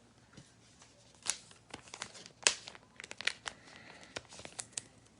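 Crinkling and crackling of trading card packaging being handled and torn open, with sharper crackles about a second and two and a half seconds in.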